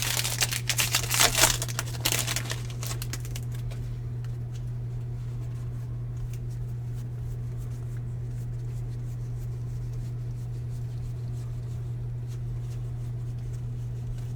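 Foil wrapper of a trading card pack crinkling and tearing open for the first two and a half seconds. After that there is only a steady low hum with faint light ticks.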